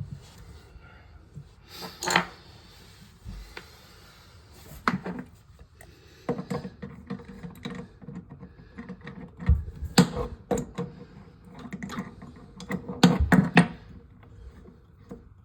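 Irregular clicks, clanks and knocks of hand tools and metal parts being handled while working on a toilet's water valve, with the loudest knocks about two-thirds of the way in and again near the end.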